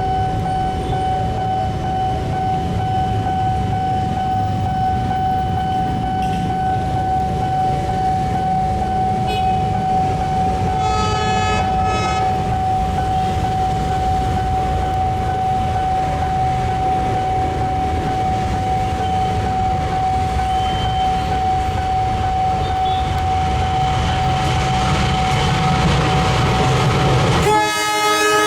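Railway train running past with a steady low rumble and a thin, steady high tone beneath it. A brief horn sounds about halfway through, and a loud train horn blast comes near the end.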